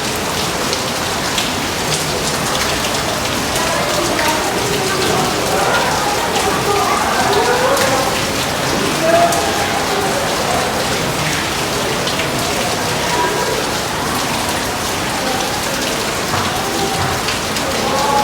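Steady rain, with many individual drops ticking on a surface. Faint wavering tones sound underneath throughout.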